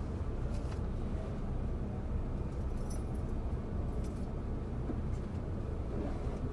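Sotetsu 9000 series electric train heard from inside the passenger car while running: a steady low rumble of wheels on rail, with a few faint ticks and no rising or falling inverter whine.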